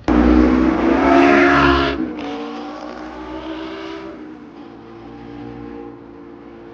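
A car engine revving loudly as it passes close by, strongest for the first two seconds and then fading away into steady street traffic.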